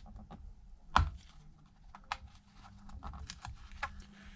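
Light clicks and taps of a small repair tool working on the internal cable connectors of an opened iPad, with one sharp click about a second in. A faint steady hum sits underneath.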